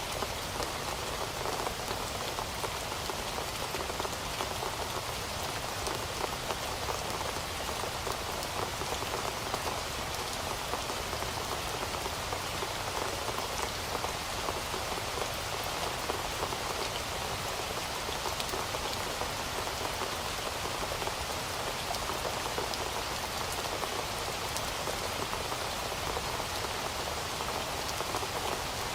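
Heavy rain falling steadily, a dense, even patter of many drops on a surface.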